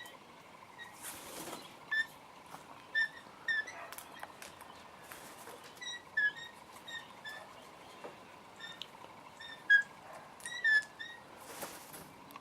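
Birds calling with short, high chirps at irregular intervals, a few standing out loudly. Two brief hissing rushes, near the start and near the end.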